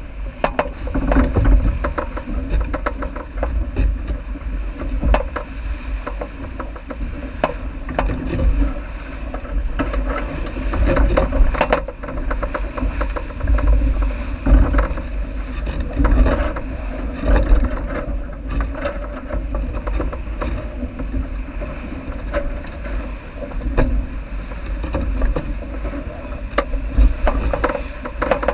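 Sailing boat running downwind: a heavy, gusting rumble of wind on the microphone over the steady rush of water along the hull, with frequent irregular knocks and slaps.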